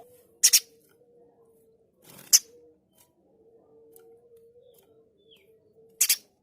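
Spiderhunter (pijantung gunung) giving loud, harsh, clipped call notes: a doubled note about half a second in, a single one about two seconds in, and another doubled note near the end.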